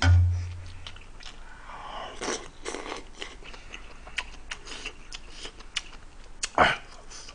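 Close-up mouth sounds of a man chewing a mouthful of kimchi stew with tofu and rice: many small wet clicks, with a few sharper noises about two and a half seconds in and again near the end. A low thump sounds at the very start.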